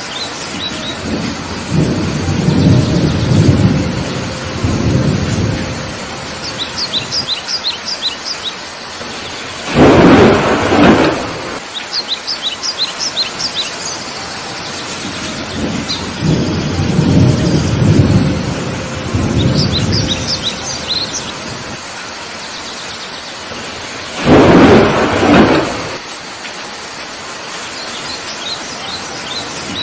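Heavy tropical rain falling steadily, with rolling thunder rumbling twice and two loud thunderclaps about fourteen seconds apart. A bird calls in short quick runs of high chirps several times over the rain.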